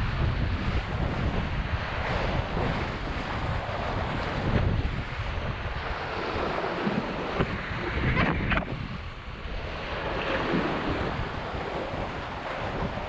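Strong wind buffeting the microphone over the rush and splash of water along the hulls of a Hobie 16 catamaran sailing fast in high wind.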